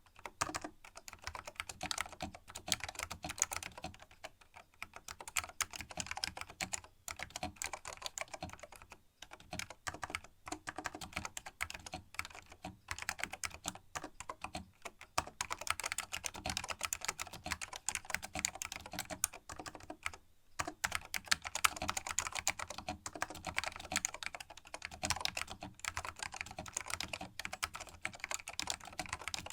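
Typing on a vintage Canon keyboard with linear green Alps switches, their springs lubed against spring ping: a continuous clatter of keystrokes broken by a few short pauses.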